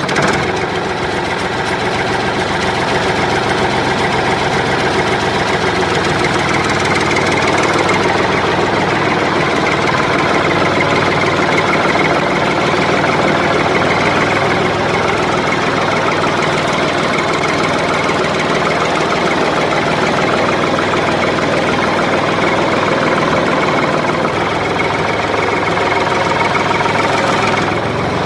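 A motor running steadily at an even, unchanging speed. It starts abruptly at the very beginning.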